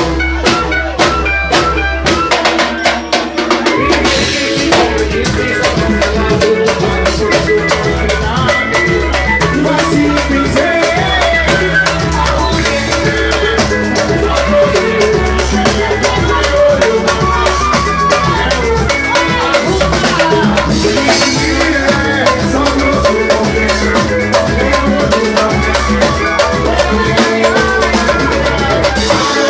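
Live band music with a drum kit keeping a steady beat under strong low bass pulses; the band comes in fuller about four seconds in.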